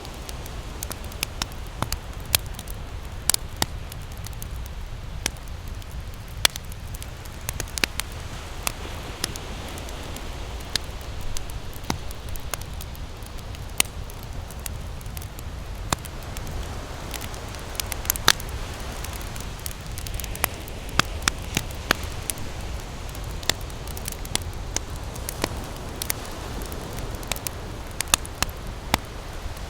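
Wood campfire crackling, with sharp irregular pops and snaps several times a second, over a steady low rumble of ocean surf.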